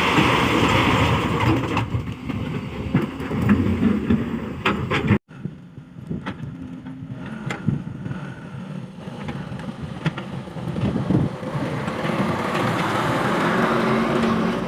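Hyundai excavator's diesel engine running under load, with a few sharp clanks of material. The sound cuts off abruptly about five seconds in, comes back quieter, and swells again near the end.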